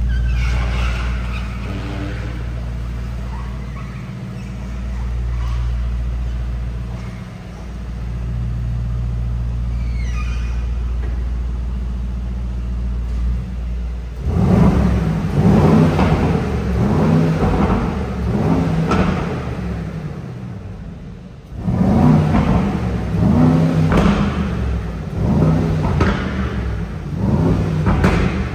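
Brabus 800's 4.0-litre twin-turbo V8 idling steadily, then revved repeatedly from about halfway in a run of rising and falling blips, with a short break before the last few.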